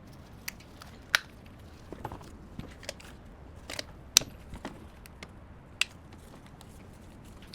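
Small hand tools and parts being handled on a workbench: scattered sharp clicks and taps, with three louder knocks spread through.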